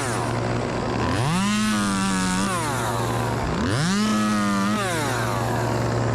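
Two-stroke chainsaw throttled up twice, each time rising quickly to full revs, holding about a second, then dropping back, over a steady low engine hum.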